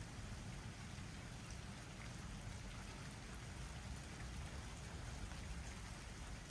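Faint, steady rain falling in a thunderstorm, with a few scattered drop ticks over a low, even rumble of noise.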